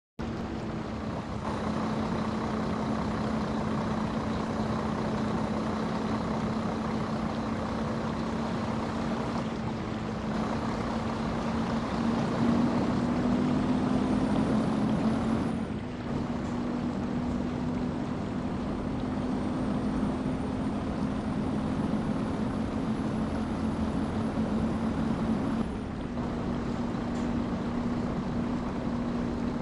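Heavy vehicle engine running steadily under a heavy load, a low hum with a faint high whine that slowly climbs twice, each time breaking off with a brief dip in the engine sound.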